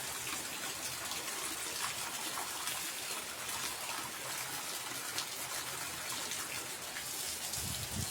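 Heavy rain pouring down steadily: a dense, even hiss with many scattered sharper drop hits.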